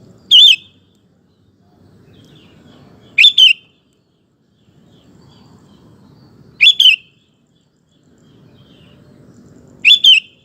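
Sooty-headed bulbul (kutilang) giving four short, loud calls about three seconds apart; the last three are each a quick double note.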